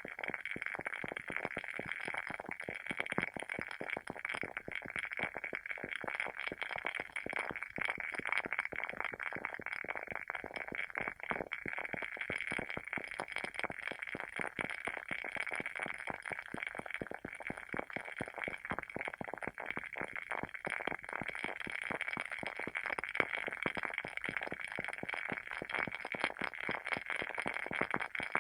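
Wooden candle wick burning with a continuous crackle: many small, irregular pops every second, like a tiny bonfire.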